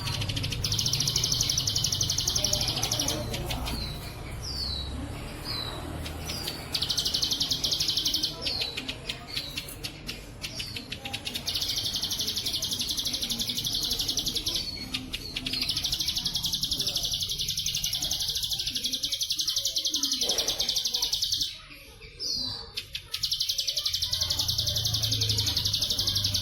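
Ciblek sawah (prinia) singing: long, fast-pulsed buzzing trills lasting a few seconds each, in the cicada-like 'bren' style, alternating with short down-curving chirps. There is a faint low hum underneath.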